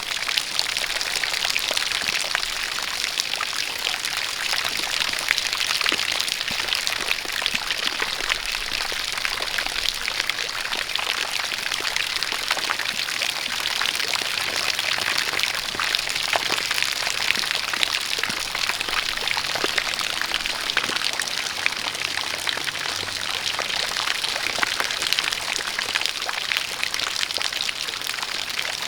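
Steady rainfall with dense pattering drops, mixed with a running stream of water pouring.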